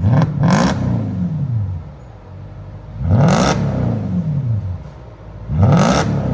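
2008 Mercedes-Benz S550's 5.5-litre V8, straight-piped with its mufflers and resonators deleted, revved three times from idle. Each rev climbs quickly, peaks loud, and drops back to idle over about a second and a half.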